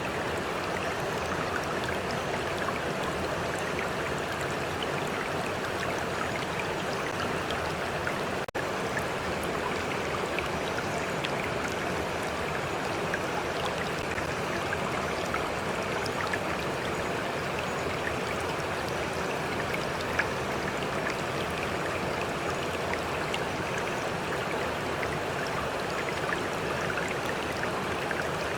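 Stream water flowing steadily over rocks, an even rushing with small splashes and droplets scattered through it.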